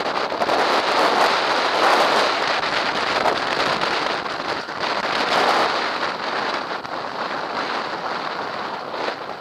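Loud, steady rushing noise with fine crackling throughout: wind on the microphone and movement over rough ground during a fast descent.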